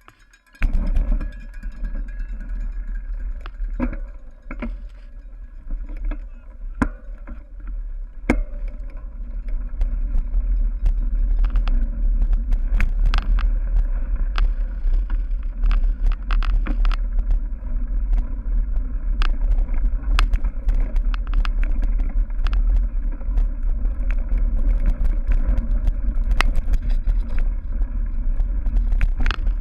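Cyclocross bike racing over rough dirt and grass: wind rumbling on the microphone, with frequent clicks and rattles from the bike jolting over bumps. The rumble starts suddenly about half a second in.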